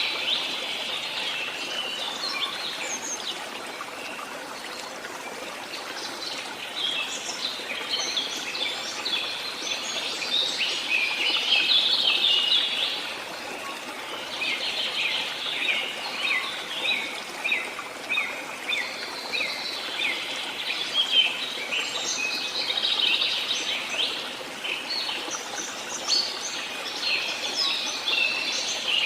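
Many small birds chirping and singing at once, a dense chorus of quick high notes that swells and eases, over a steady background rush.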